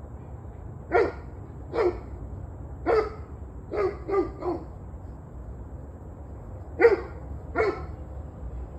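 A dog barking: eight sharp barks in short groups, including a quick run of three about four seconds in, then a pause before two more near the end. A steady low rumble runs underneath.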